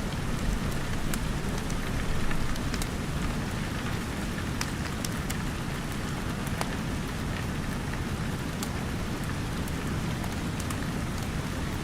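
Steady rain pattering, mixed with a wood fire crackling: sharp pops scattered irregularly, a few every second.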